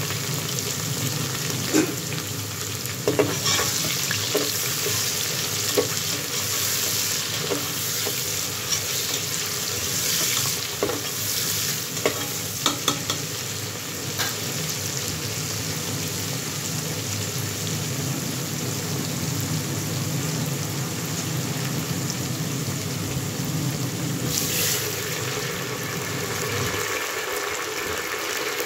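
Onions, tomatoes and green onions sizzling steadily in oil in an aluminium pressure cooker. In the first half they are stirred, with several sharp clinks against the pot.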